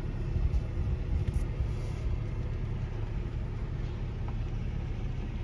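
Steady low rumble of a car driving slowly: engine and road noise.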